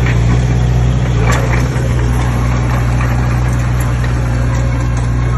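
Heavy diesel engine of earthmoving machinery running steadily with a deep, even hum, and a few light clanks and rattles over it.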